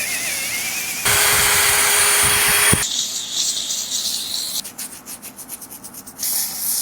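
Brush scrubbing the rubber outsole of a Jordan 6 sneaker: a steady bristle hiss, a louder rushing noise with a faint hum from about a second in for nearly two seconds, and quick back-and-forth strokes, several a second, in the second half.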